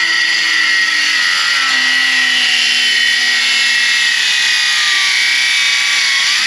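Milwaukee M12 cordless circular saw with a Diablo demolition blade running through a cut in a board: a loud, steady high whine over a motor note that drops in pitch about a second and a half in as the blade takes the load.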